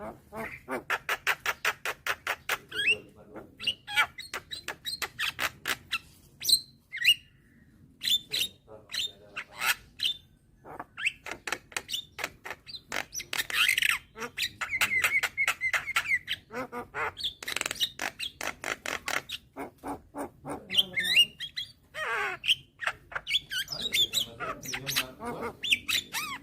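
Young Javan myna (jalak kebo) calling: long runs of rapid clicks and chatter mixed with short whistles and harsh squawks, with one held whistled note about halfway through.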